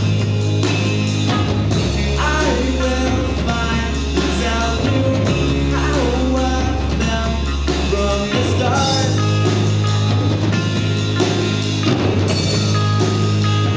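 Rock band playing live, with drum kit, bass and a lead melody that slides between notes through the middle of the passage.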